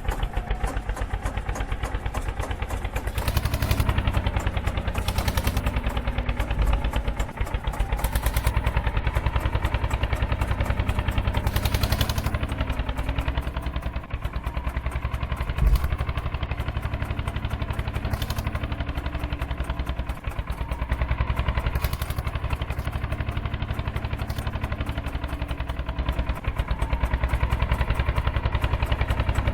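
Eicher 241 tractor's single-cylinder diesel engine running with a rapid, even knock of firing strokes, its speed drifting up and down a little. There is one short louder thump about halfway through.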